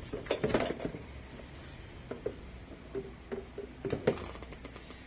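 Scattered clicks and knocks of engine parts being handled as the fuel tank is fitted onto a small mower engine, with the loudest knocks near the start and about four seconds in.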